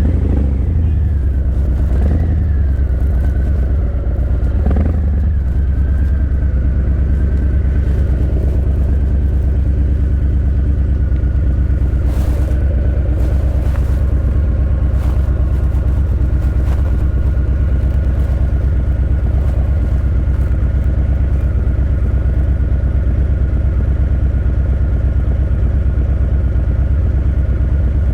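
Harley-Davidson Breakout 117's Milwaukee-Eight 117 V-twin running through Vance & Hines Eliminator 300 slip-on mufflers. The pitch changes quickly a few times in the first five seconds, then holds steady.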